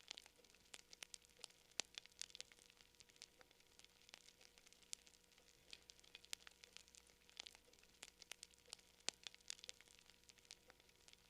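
Wood campfire crackling quietly: a dense, irregular run of sharp pops and snaps, several a second, with a few louder snaps scattered through.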